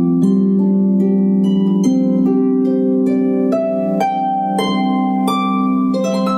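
Gentle harp music: single plucked notes every half second or so, ringing on over held lower tones.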